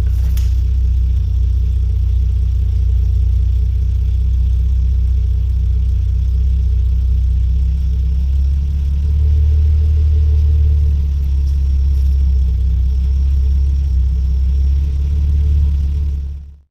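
Nissan Skyline R34 GTT's RB25DET turbocharged straight-six idling steadily through an HKS Hi-Power cat-back exhaust, with a tame, deep note. The idle pitch steps up slightly about eight seconds in, and the sound cuts off just before the end.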